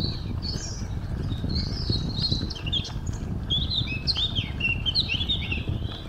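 Small songbirds chirping and twittering in many short, overlapping calls, busiest in the second half, over a steady low rumble.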